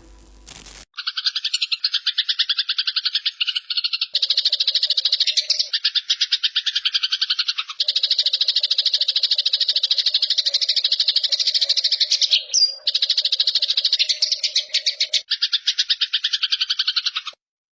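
Eurasian tree sparrow giving its harsh, rapid chattering fighting call: long runs of fast, evenly repeated notes broken by short pauses, stopping shortly before the end.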